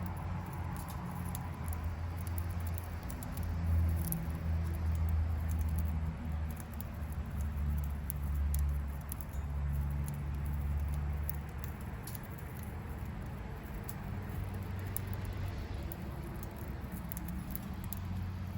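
A pet budgerigar pecking and cracking seeds from a hand: many small, sharp, irregular clicks of its beak. A low rumble runs underneath, louder for a stretch in the middle.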